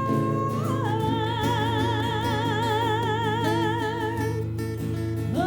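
A female singer holding one long high note with wide vibrato over steady sustained backing chords, stepping down slightly about a second in and fading out after about four seconds; a new note slides up near the end.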